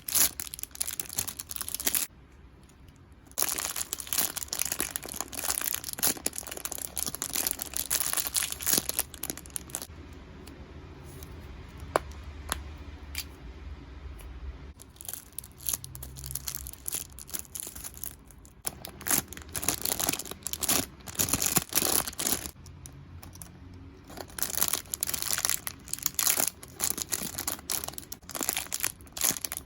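Crinkly plastic packaging of squishy toys being handled, rustling and crackling in bursts. There is a brief pause about two seconds in and a quieter stretch in the middle.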